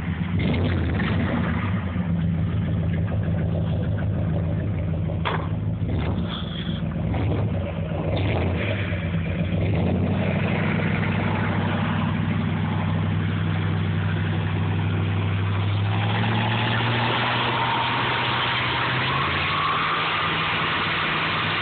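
Dodge Ram's 318 V8 with a two-barrel carburettor running through dual Flowmaster mufflers, a steady low exhaust note. Engine speed rises slightly about halfway through and holds, with a few light clicks before that.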